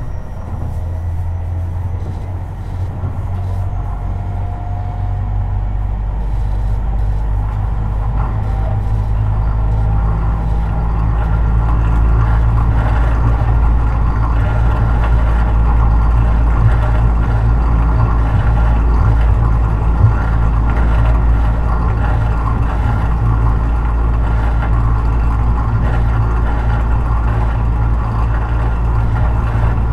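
Tobu 50090 series electric commuter train heard from inside the car near the underfloor, running between stations. A faint motor whine rises early on and the wheel-and-rail rumble grows louder for about the first twelve seconds as the train picks up speed, then holds steady at running speed.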